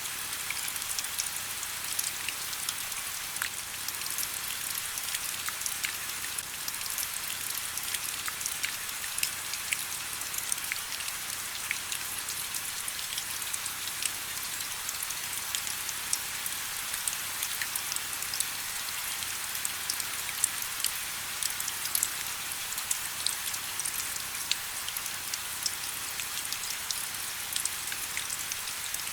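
Steady rain falling, with a constant hiss and many close, distinct drop ticks scattered through it.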